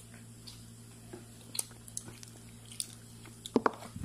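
A child chewing a mouthful of fried chicken, with soft, scattered mouth clicks. A few louder knocks come near the end, over a faint steady hum.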